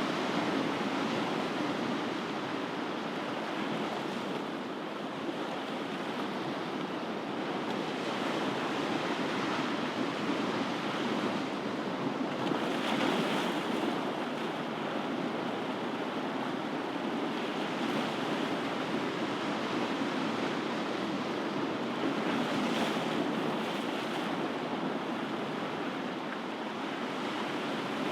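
Ocean waves washing onto a shore: a steady rushing surf that swells gently twice, about halfway through and again near the end.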